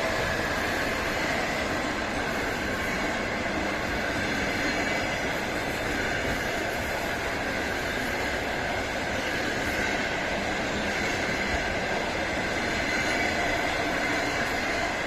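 A train running past on the rails: a steady, continuous noise of wheels on track with a faint high squeal.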